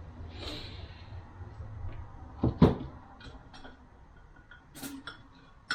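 Transmission parts handled on a workbench: a brief rustle, then two sharp knocks about two and a half seconds in, followed by a few light clicks.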